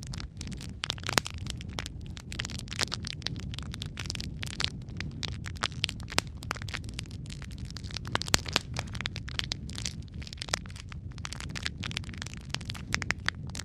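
Wood fire of burning logs crackling, with many sharp irregular snaps and pops over a low steady rumble of the flames.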